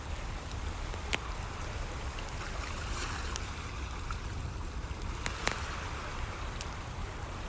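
Wood fire crackling, with a few sharp pops, the loudest about a second in and two close together near five and a half seconds, over a steady rushing wash of waves.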